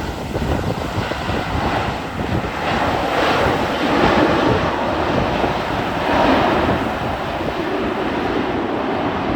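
Jet engine roar of a Boeing 737 MAX airliner, a loud steady rush that swells twice, with wind buffeting the microphone.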